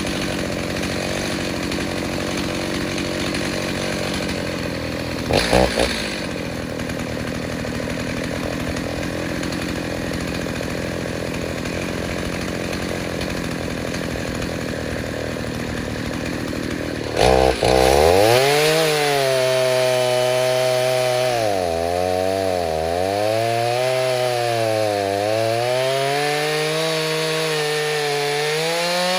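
Stihl 029 two-stroke chainsaw with a 45 mm cylinder running steadily, with a short rev about five seconds in. A little past halfway it is opened up to full throttle and cuts wood, its pitch dipping and recovering several times as the chain takes load.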